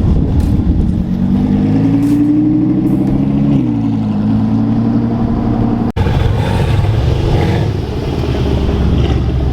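Car engine accelerating, its note rising for a couple of seconds and then dropping sharply about three and a half seconds in, like a gear change, then running steadily. After an abrupt cut about six seconds in, a steady low engine rumble.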